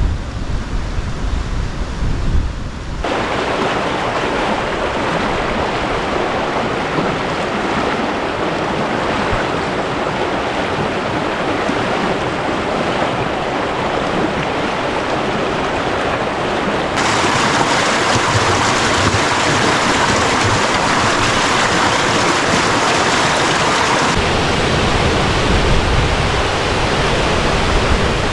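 Waterfall rushing: a loud, steady, even hiss of falling water whose tone shifts abruptly a few times. Gusts of wind buffet the microphone in the first few seconds.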